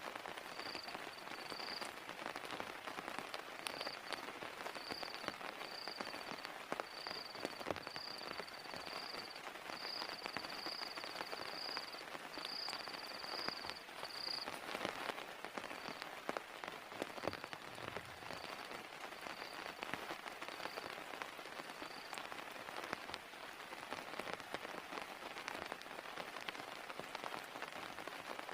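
Steady heavy rain falling, with scattered drops ticking individually. A short, high chirp repeats about once a second through the first half and grows fainter after the middle.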